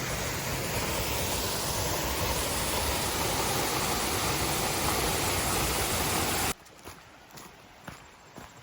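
Waterfall roaring steadily as a dense rush of falling water, which cuts off suddenly about two-thirds of the way in, leaving a much quieter background with a few faint clicks.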